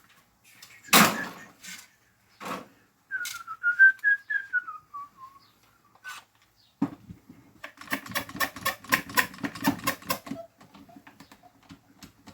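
A clamp being fitted and tightened onto a scrap 2x6 board: a loud knock, a few lighter knocks, a short squeak falling in pitch, then a quick run of clicks, about five a second, as the clamp is worked tight.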